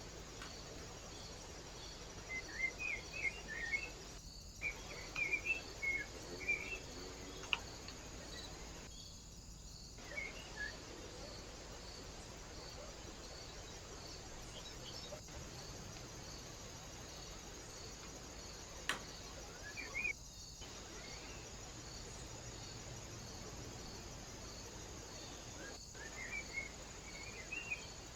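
Small birds calling in clusters of short chirps, over a steady hiss and a cricket chirping about twice a second. There are two sharp clicks, and the sound drops out briefly four times.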